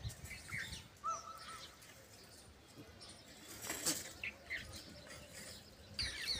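Small birds chirping: scattered short chirps, a quick run of repeated calls about a second in, and a rapid series of repeated chirps near the end. A single brief scraping noise about four seconds in.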